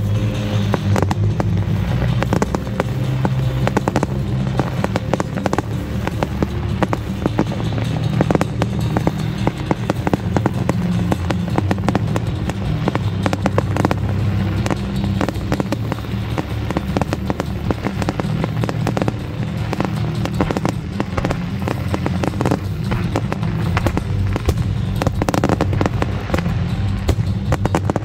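Fireworks display going off in rapid succession: a dense, continuous run of bangs and crackles with no pause.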